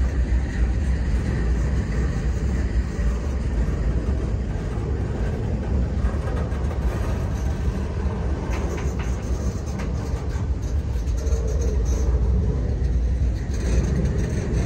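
Double-stack intermodal freight cars rolling past on steel wheels and rail, a steady low rumble, with a few sharp clicks around the middle.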